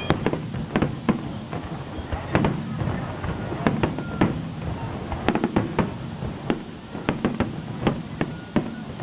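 Fireworks display: shells bursting in a rapid, irregular series of bangs, several a second, each with a short echoing tail.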